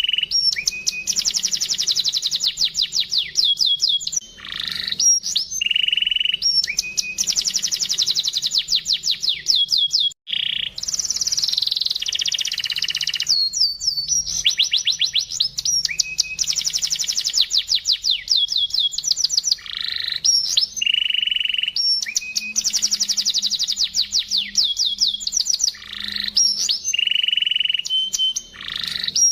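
Domestic canary singing a continuous song: long, very fast high trills alternating with held whistled notes, in phrases that repeat every few seconds.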